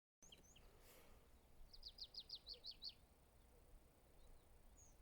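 A small bird sings a quick run of about seven high, downward-sweeping notes, with a few faint scattered chirps around it, over a faint low rumble.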